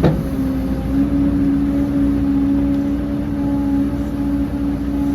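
Heavy diesel earthmoving machinery running steadily, a deep rumble with a held whine over it that settles in about a second in, after a sharp knock at the very start.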